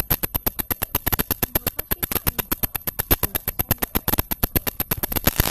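Rapid, even clicking, about ten sharp clicks a second, a bit louder near the end; the recording's own audio is faulty, as the person filming complains.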